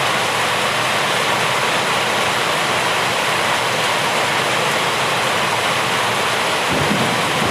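Steady heavy rain falling. A low rumble comes in underneath it near the end.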